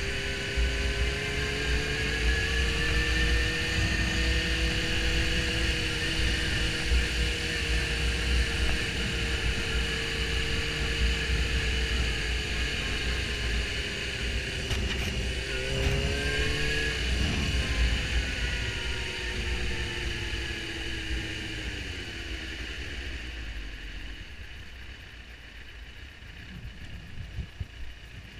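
Suzuki GSX-R750 inline-four engine under way, its pitch rising and falling with the throttle, with a quick drop and pick-up about halfway through as a gear is changed. Toward the end the engine note falls away and the low rumble of wind on the microphone eases as the bike slows.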